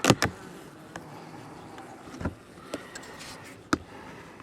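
Honeybee colony buzzing steadily as the hive is cracked open, with a few sharp clicks and knocks from the opening, two close together at the start and single ones later.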